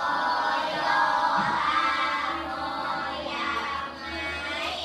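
A group of children singing together in unison, their voices held in long, continuous notes.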